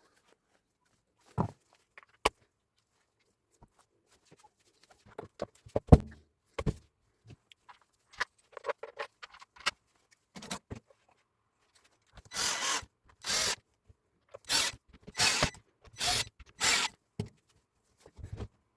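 Scattered clicks and knocks of tools and parts being handled, one louder knock about six seconds in. Then, in the second half, a power tool runs in six or seven short bursts.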